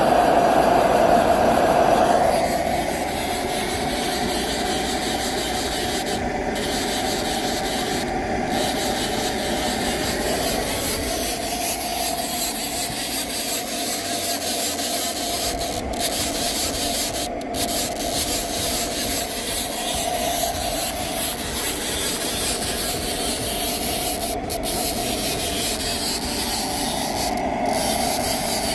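1929 16-horsepower transportable hot bulb engine running with a steady, rough mechanical noise, a little louder for the first two seconds.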